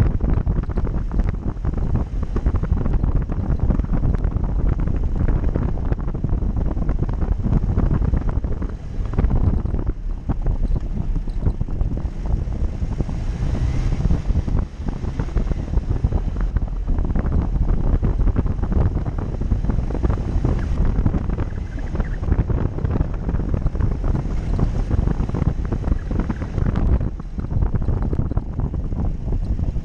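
Off-road vehicle driving, its low rumble mixed with heavy wind buffeting the microphone throughout.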